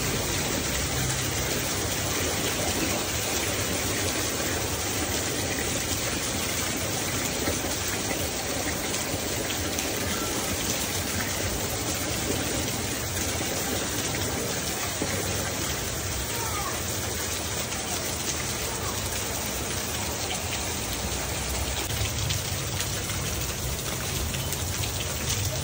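Steady rain falling on a wet concrete yard.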